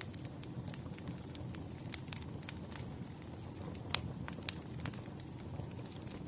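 Wood fire burning with a steady low rush and irregular sharp crackles and pops, one louder pop about four seconds in.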